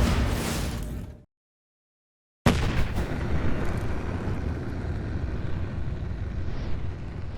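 Music fading out into a second of silence, then a deep rumble that starts suddenly and runs on steadily.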